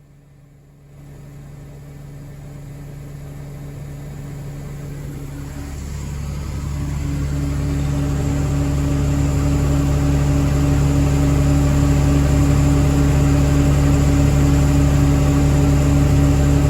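Farm tractor engine running, building up in level over the first several seconds and then holding at a steady, loud drone with a constant low hum.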